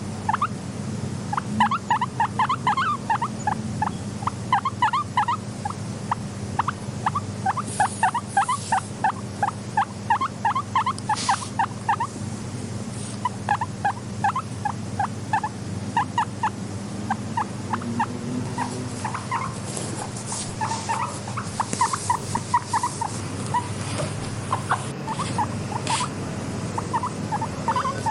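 Guinea pigs squeaking in quick runs of short, rising chirps, several a second, over a steady low hum.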